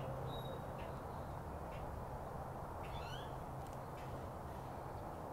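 Birds calling outdoors over a steady low background rumble: a brief high whistle about half a second in, then a quick run of rising chirps about three seconds in, with a few short ticks.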